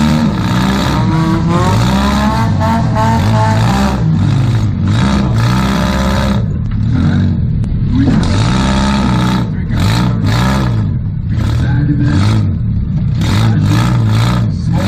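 Toyota Camry demolition derby car's engine revving up and falling back again and again as it accelerates and backs off, heard inside its gutted cabin, with bursts of clatter and knocks over it.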